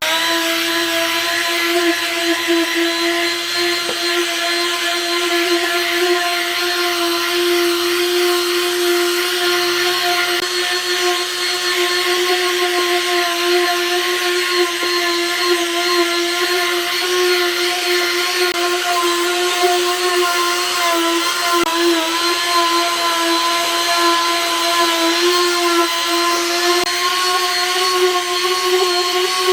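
A small electric power tool starts up suddenly and runs at a steady speed, giving a constant high-pitched whine.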